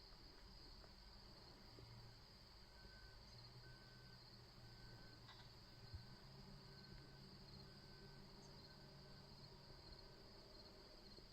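Near silence with a faint, steady chorus of crickets. A faint series of short, evenly spaced notes sounds through the middle, and there is a single soft tap a little past halfway.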